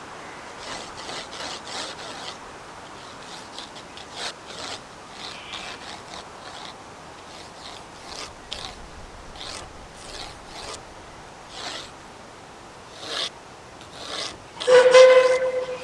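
Short rubbing scrapes of drawing strokes on paper, a few a second with pauses between. Near the end a steam locomotive's whistle sounds loudly for about a second.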